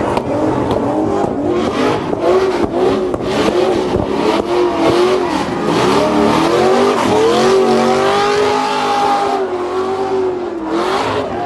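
Car engine revving hard, its pitch swinging up and down again and again, then held at a higher, steadier rev for a couple of seconds near the end.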